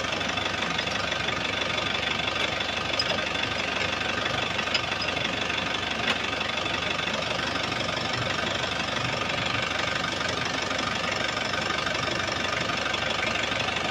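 Car engine running steadily at idle, with two short clicks about five and six seconds in.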